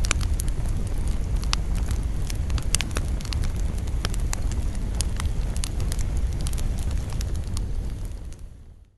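Campfire burning, with irregular sharp crackles and pops of wood over a low steady rumble. The sound fades out near the end.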